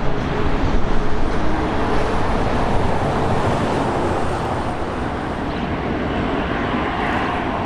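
Airliner jet engines running, a steady rush of noise with a faint high whine above it.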